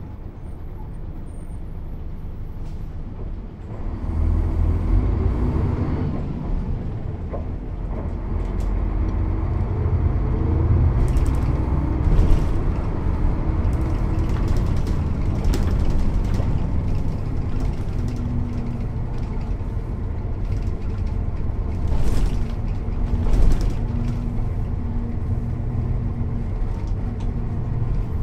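Mercedes-Benz O 407 city/intercity bus with a manual gearbox and six-cylinder diesel engine running, lower at first, then pulling harder about four seconds in and staying loud, with several short sharp hisses or clacks along the way.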